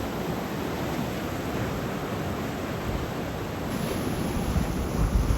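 Steady rush of rough ocean surf, with wind on the microphone.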